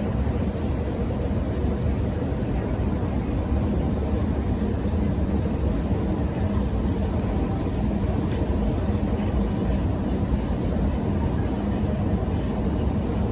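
Subway train running: a steady low rumble with a faint hum, unbroken throughout.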